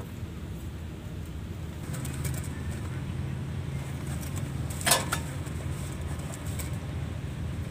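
A greater coucal scuffling with a snake on a concrete floor: scattered light clicks and taps, with one sharp knock about five seconds in, over a steady low hum.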